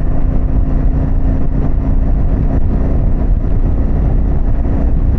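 Harley-Davidson Pan America's Revolution Max 1250 V-twin, fitted with a Vance & Hines exhaust, running steadily at a constant cruise with road and wind rush. There is no change in engine speed.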